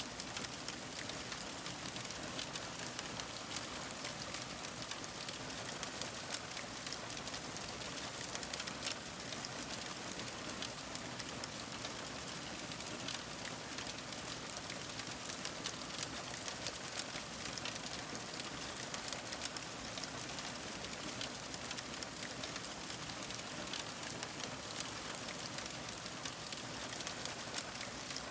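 Fire crackling: a steady hiss with many small, sharp pops scattered throughout.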